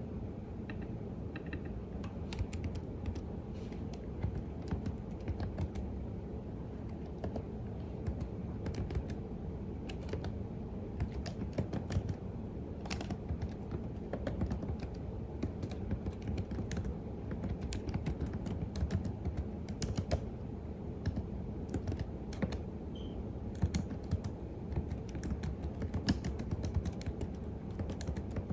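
Computer keyboard typing: irregular runs of key clicks over a steady low background hum, the typing sparse for the first couple of seconds and then continuous.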